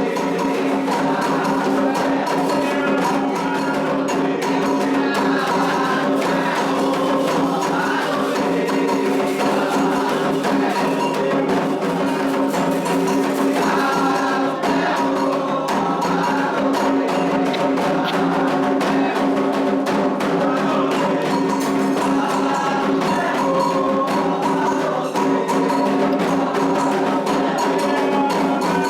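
Candomblé ritual music for Xangô: continuous hand drumming with a clacking struck percussion part and group singing, played without a break.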